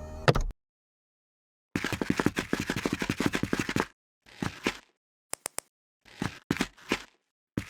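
LEGO plastic pieces clicking and clattering rapidly in short bursts as they are handled and snapped together, broken by sudden cuts to dead silence.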